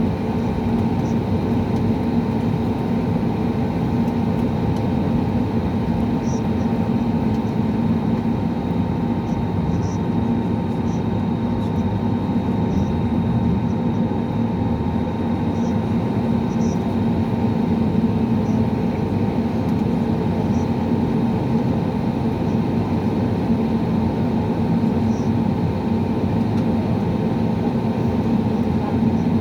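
Steady engine drone heard inside the cabin of an Airbus A320neo running on the ground before takeoff, a strong low hum with a few steady higher tones and scattered faint short high ticks.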